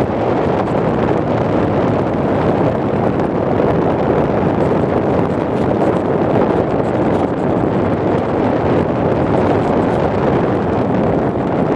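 Steady rush of air buffeting the microphone of a camera carried on a flying RC plane, with no distinct motor tone standing out.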